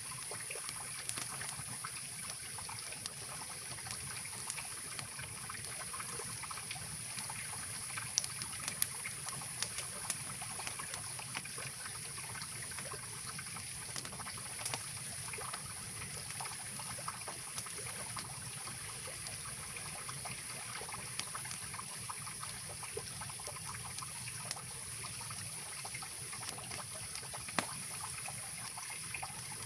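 Mountain river rushing and trickling steadily, with scattered sharp crackles and pops from a wood campfire, a few louder pops among them.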